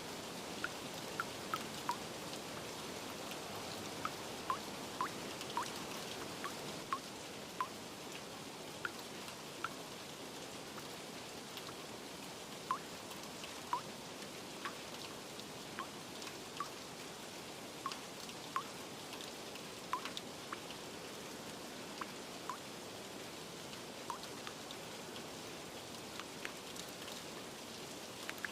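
Steady rain falling, with irregular plinking water drips, roughly one or two a second.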